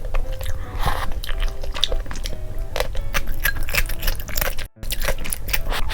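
Close-miked wet chewing and smacking of Buldak spicy noodles, many irregular clicks, with soft background music under it. The sound cuts out briefly about two-thirds of the way through.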